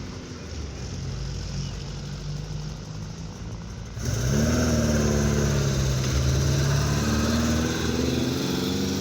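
Classic car engines passing at low speed. About four seconds in the sound jumps louder and an engine revs up as a car pulls away, with other engines running alongside.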